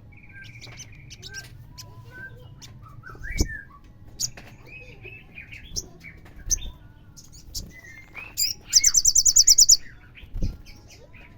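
Olive-backed sunbird calling: scattered short high chirps, then a loud, fast trill of about a dozen high notes lasting about a second, near the end. A couple of soft low thumps are also heard.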